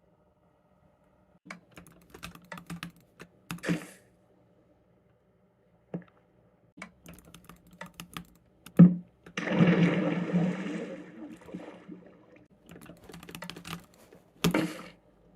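Computer keyboard typing in short bursts of key clicks with pauses between, including a dense, louder run of rapid keystrokes partway through and a few heavier single key strikes.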